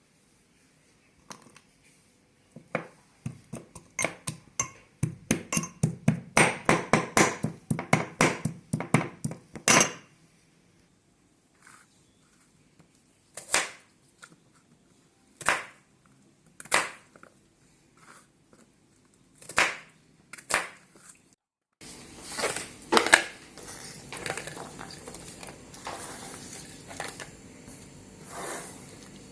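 Kitchen utensil sounds of food preparation: a quick rhythmic run of sharp knocks, then single knocks a second or two apart. About two thirds of the way through, a steady hiss begins with clatter over it.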